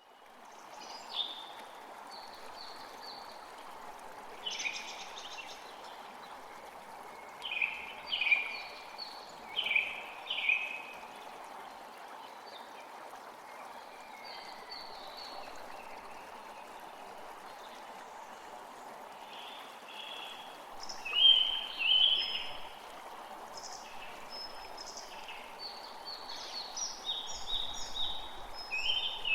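A forest creek flowing steadily, with songbirds singing short repeated phrases over it, busiest in the last third.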